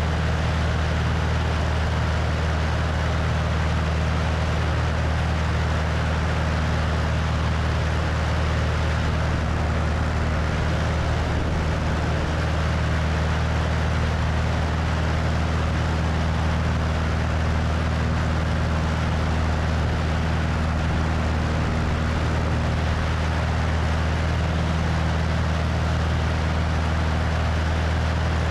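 Cessna 172's piston engine and propeller running steadily in flight, with wind rushing over the wing-mounted microphone; the engine's low hum holds at one pitch throughout.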